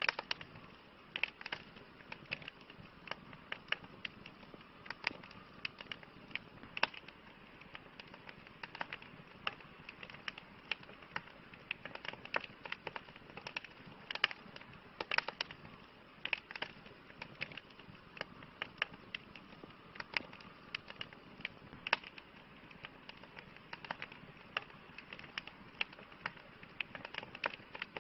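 Campfire crackling: irregular sharp pops and snaps of varying loudness, several a second, over a soft steady hiss of burning wood.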